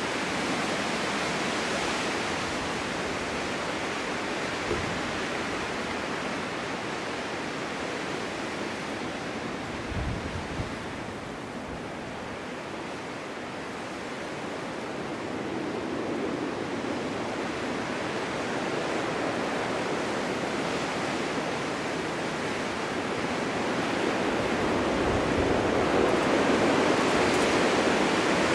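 Winter wind blowing in gusts, a steady rushing noise that eases about halfway through and builds again toward the end, with a few brief low thumps.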